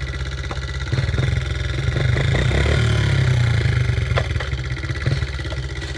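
Dirt bike engine running near idle, picking up speed and getting louder about a second in, then settling back toward idle near the end.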